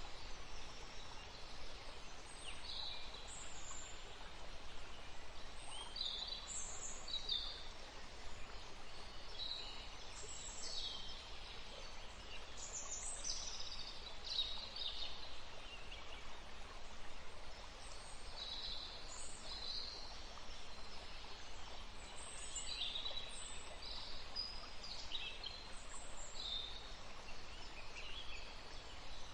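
Birds chirping: many short, high calls, often overlapping, come every second or so over a steady faint hiss.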